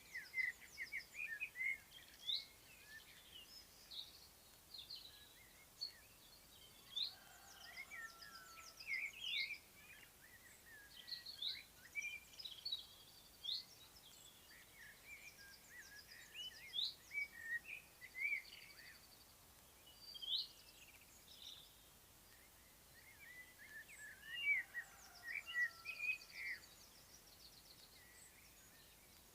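Songbirds singing: a busy run of short chirps and quick whistled phrases from several birds, with a short lull about three quarters of the way through.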